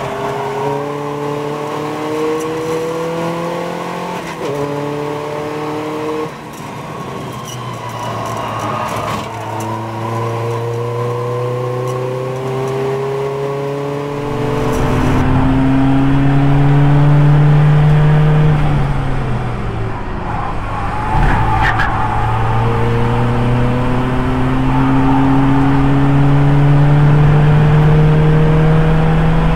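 Audi TT race car's 2.0 TDI diesel engine (CUAA) pulling hard on track, its note climbing slowly in pitch, dropping back and climbing again several times. It grows louder and rougher about halfway through.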